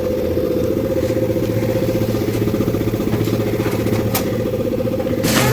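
A machine motor running steadily, with a constant hum and a fast, even rattle.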